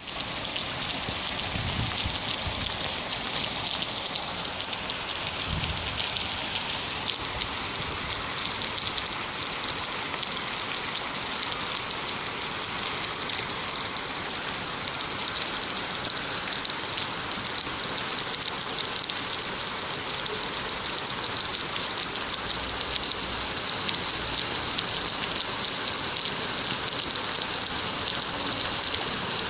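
Steady heavy rain falling, an even hiss with no letup, and two brief low thuds in the first six seconds.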